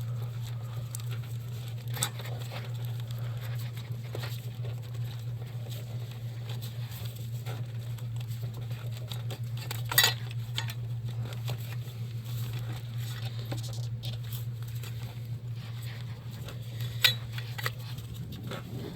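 Scattered clicks and knocks of a loosened engine part being worked around in the engine bay, the sharpest about ten seconds in and again near the end, over a steady low hum.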